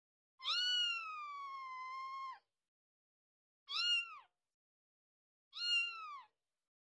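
A cat meowing three times: one long, high-pitched meow of about two seconds that falls and then holds, then two short meows.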